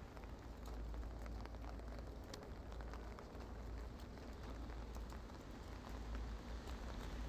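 Steady rain with scattered individual drops ticking onto surfaces.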